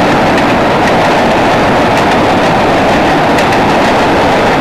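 Freight train cars rolling across a steel trestle bridge on jointed rail: a loud, steady rumble and rattle, with occasional clicks of wheels crossing rail joints.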